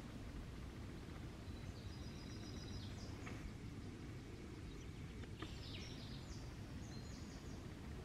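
A steady low outdoor rumble, with a small bird singing short, high chirping phrases about two seconds in and again in the second half.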